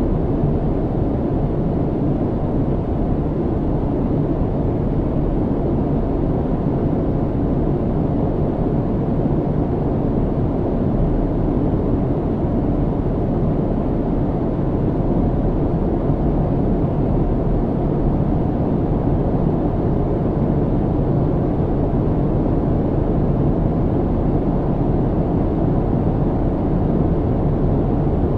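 Steady low rumble of an airliner's cabin in flight: engine and airflow noise, even and unchanging.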